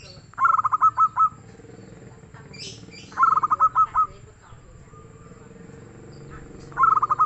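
Zebra dove (perkutut) cooing in three loud phrases about three seconds apart. Each phrase is a quick run of short staccato coos followed by a few spaced ones; the third is cut off at the end.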